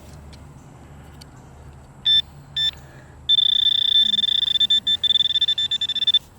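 Metal detector giving a high-pitched electronic tone over a target: two short beeps about two seconds in, then a long steady tone that breaks into rapid pulses before cutting off shortly before the end.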